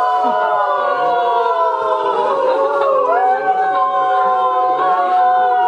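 Several voices singing together unaccompanied in harmony, holding long notes and moving to a new chord about three seconds in.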